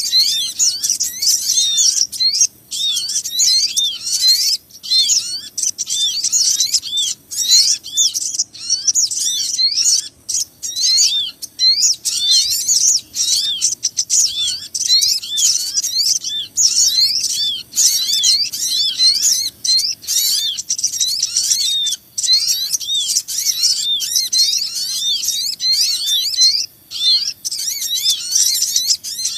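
Bird-lure recording of small birds, sogon among them, calling in a dense, agitated chorus: rapid high chirps, several a second, overlapping without a break.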